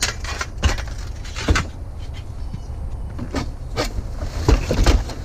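Scrap being handled and loaded: a series of sharp knocks and clanks, grouped near the start, about 1.5 s in and in a quick cluster near the end, with a few short squeaks about 3 s in, over a steady low rumble.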